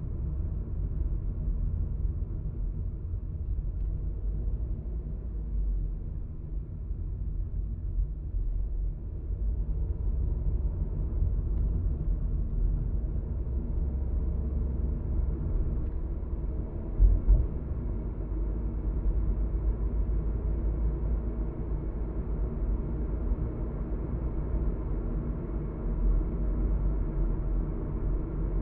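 Car driving, its road and engine noise heard inside the cabin as a steady low rumble. A brief louder thump comes a little past the middle.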